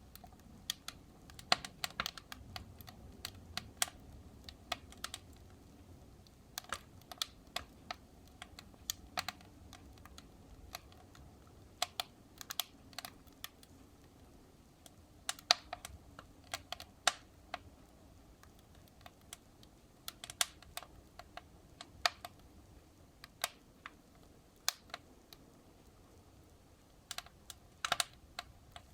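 Wood fire burning in a fireplace, crackling with irregular sharp snaps and pops over a low, steady rumble of the flames.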